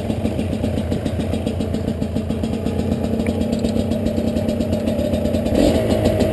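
Two-stroke dirt bike engine running at low revs with a rapid, even pulsing note, rising briefly in a short blip of throttle about five and a half seconds in.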